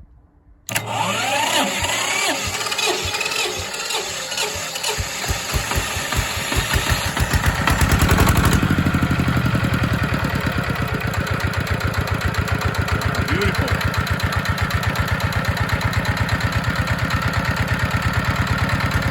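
ZR185 single-cylinder direct-injection diesel engine starting from cold at -4°C. It bursts into sound under a second in, fires unevenly with quickening strokes for several seconds, then settles into a steady, even idle from about halfway through.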